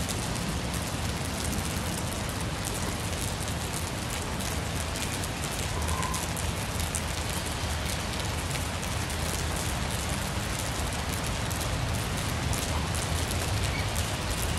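Steady rain falling on a fabric shade cloth overhead, many close drops standing out as separate ticks.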